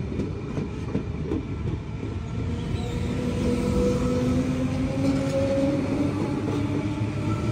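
Electric passenger train moving through the station, its traction motors whining and rising in pitch as it gathers speed, over a steady rumble with wheels clicking on the rail joints.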